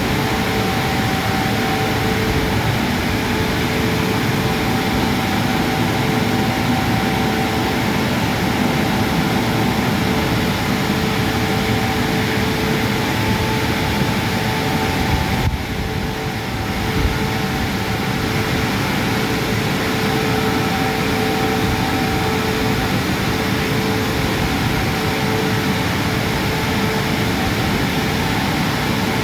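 Christ Genius Vitesse rollover car wash machinery running, a loud steady rush of air and water with two steady whining tones over it. The sound dips briefly about fifteen seconds in, then carries on.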